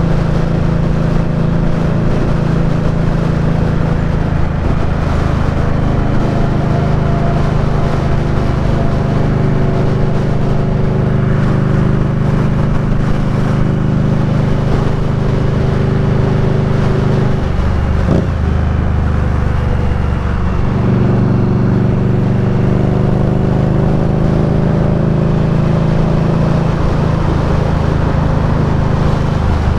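Indian Scout Bobber's V-twin engine running steadily under way. About 18 seconds in the engine note drops lower, and it returns to its earlier pitch about 21 seconds in.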